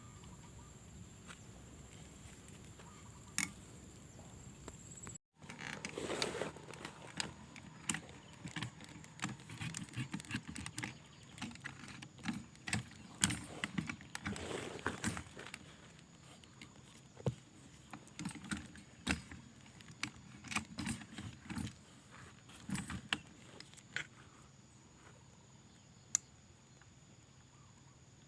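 Irregular clicks, knocks and rustling, many small handling or movement noises, starting after a brief cut about five seconds in and thinning out near the end. A steady high whine runs underneath.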